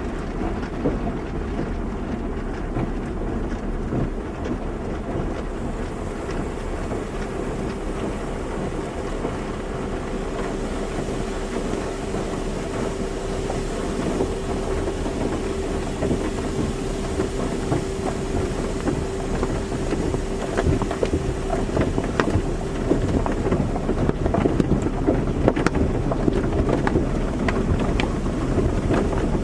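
Car wash running: a steady rush of water spray and machinery, with a steady hum through the middle and more frequent short hits and taps toward the end.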